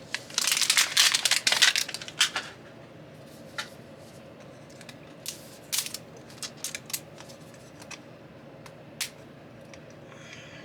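A small plastic zip bag crackling and rustling for about two seconds as it is worked open with a pointed pick tool, followed by scattered light clicks and taps of small plastic pieces being handled.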